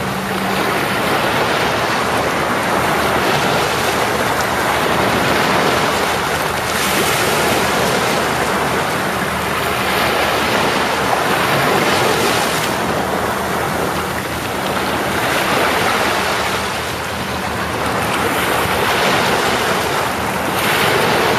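Ocean surf washing onto the shore in a steady rush that swells and eases every three to four seconds as the waves come in.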